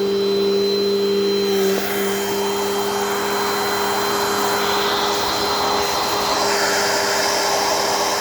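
Dirt Devil Dynamite Plus vacuum cleaner running steadily, a motor hum under rushing air. About two seconds in, the hum shifts slightly and the air rush grows louder as the hose sucks debris out.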